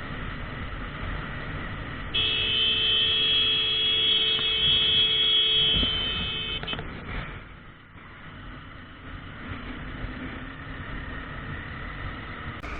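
A vehicle horn held steadily for about five seconds over the running noise of traffic, starting about two seconds in and cutting off near seven seconds.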